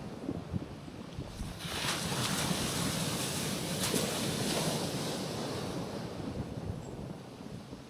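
Small waves washing onto a rocky shoreline: the surf swells up about a second and a half in and eases off after about five seconds, with some wind on the microphone.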